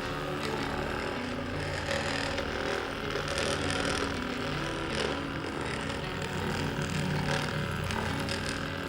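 Percussive massage gun running with a steady buzz, its pitch shifting a little now and then as it is pressed against the muscles around the knee.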